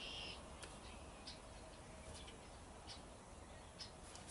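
Quiet outdoor background with a bird giving short, high chirps about once a second.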